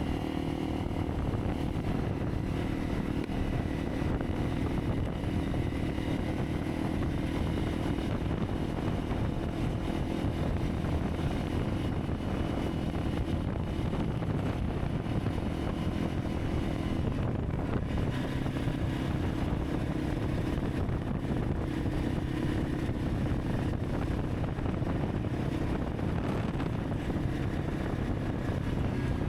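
Honda CRF300 Rally's single-cylinder four-stroke engine running at a steady cruise while riding, with road and wind noise on the microphone.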